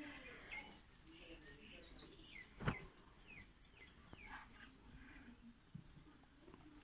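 Quiet outdoor ambience with a run of faint, short chirps from birds, each falling in pitch, and one sharp tap about two and a half seconds in.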